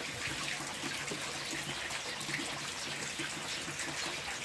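Steady rain falling: an even hiss with scattered drops and drips.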